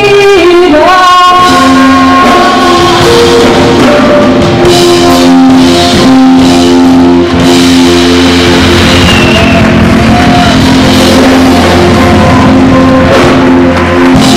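Live band music: a singing voice holds long notes over guitar and drums.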